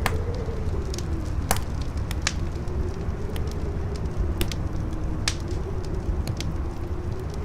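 Campfire crackling, with sharp irregular pops and snaps over a low rumble, and a howling wind whose moaning tone slowly wavers in pitch.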